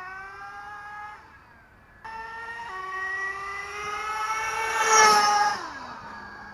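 Nitro RC truck engine, a Novarossi 2.5 supercharged in a Traxxas Slayer, running high and wailing. It fades away about a second in, comes back climbing in pitch, and is loudest about five seconds in. Then it drops back to a low idle near the end.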